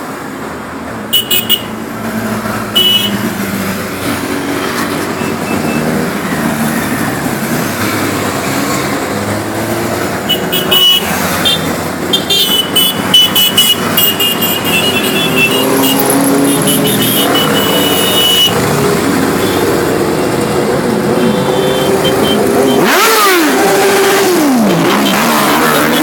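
A group of motorcycles running and riding by, several engines at once, with short horn toots scattered through. About 23 seconds in, one engine revs up and falls away.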